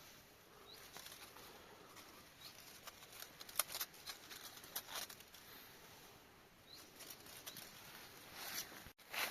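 Faint rustling with scattered light clicks and ticks, and two short high chirps, one about a second in and one near seven seconds.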